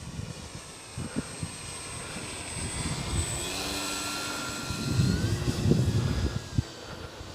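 Electric motor and propeller of a Dynam Beaver RC plane in flight: a thin whine that steps up in pitch about five seconds in. Gusts of wind buffet the microphone, loudest around the same moment.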